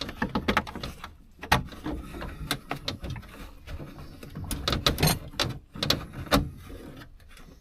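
Irregular clicks, knocks and creaks of a brittle old truck headliner and its plastic trim and clips being pried and pulled loose inside the cab, with a few sharper knocks among them.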